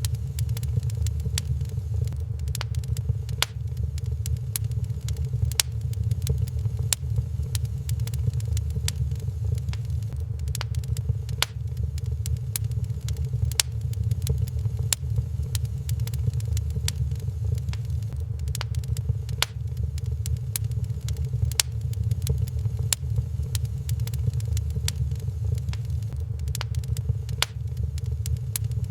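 Wood fire burning in a fireplace, with frequent irregular sharp crackles and pops over a steady low rumble.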